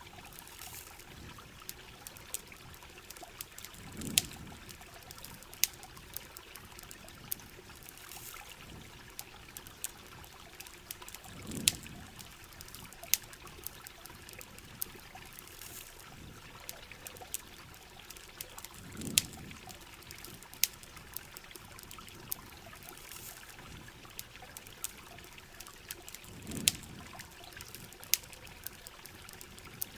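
Steady rain and running water with sharp crackling pops from a campfire. A soft low swell returns about every seven and a half seconds.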